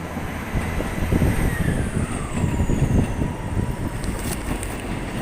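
A heavy vehicle passing close by: a rumble that builds and peaks in the middle, with a whine that drops in pitch as it goes past.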